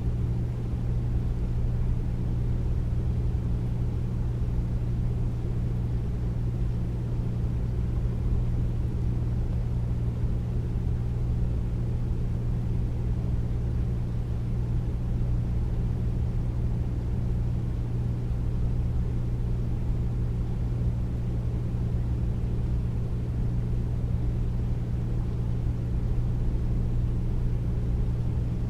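Air conditioner running steadily with no cold air: a deep, even rush of air over a low, steady hum.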